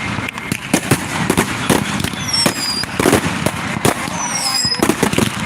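Fireworks going off in rapid succession: a dense run of bangs and crackles, with two short high whistles that fall in pitch, one at about two seconds in and one near the end.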